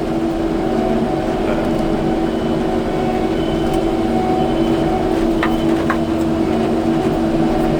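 Kubota skid steer's diesel engine running steadily, a constant drone with a steady hum in it, and a couple of faint clicks about five and a half seconds in.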